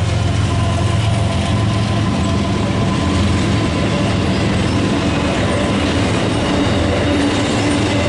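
Freight train rolling past: a loud, steady rumble of wheels on rail, with thin squealing tones from the wheels above it.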